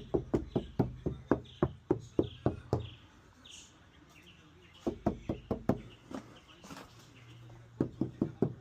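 Knuckles tapping on the trunk panel of a 2026 Tesla Model Y, now lined with sound-deadening mat: three runs of quick knocks, about four or five a second, with a pause between them. The taps demonstrate that the panel no longer sounds like a tin can.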